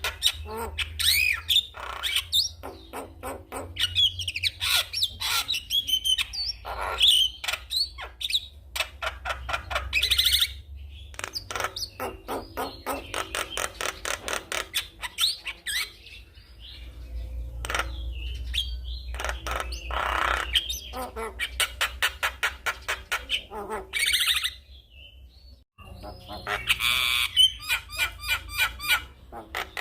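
Javan myna singing at length: fast runs of rattling, clicking chatter mixed with whistled notes, broken by a short pause about 25 seconds in.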